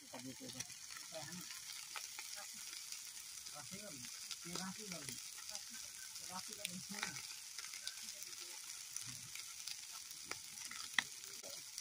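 Chicken pieces in spice masala frying in an aluminium pot over a wood fire: a steady sizzling hiss with scattered small pops and clicks.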